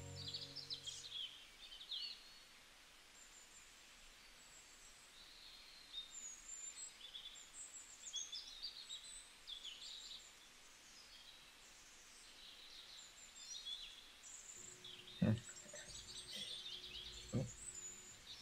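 Faint outdoor ambience with small birds chirping and twittering throughout. Background music fades out in the first moment, and two soft knocks come near the end.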